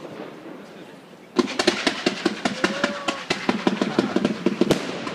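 Fireworks going off: after about a second and a half of near quiet, a sudden rapid, irregular rattle of sharp bangs starts, several a second, like a string of firecrackers.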